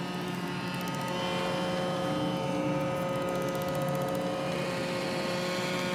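Roomba j7+ robot vacuum running: a steady motor hum made of several even tones.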